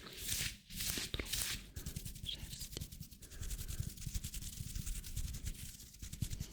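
Hands rubbing close to the microphone: a few long brushing strokes, then a dense run of fine crackling friction.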